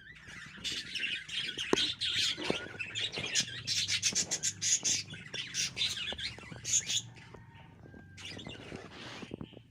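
Budgerigar chicks in the nest calling in a dense, rapid, rough chatter that lasts about seven seconds, then fainter calls near the end.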